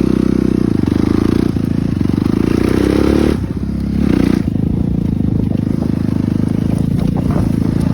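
Suzuki RM-Z250 four-stroke single-cylinder dirt bike engine running under throttle. The revs climb over the first three seconds, then drop off sharply as the throttle is chopped. There is a short blip of revs about a second later, then it settles back to a steady run.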